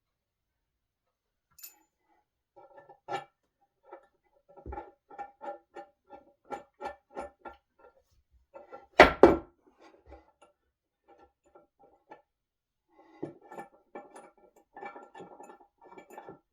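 Clicking and knocking of tools and wooden table parts being worked during furniture assembly: a run of short ringing clicks at about three a second, a loud double knock about nine seconds in, then more clicking near the end.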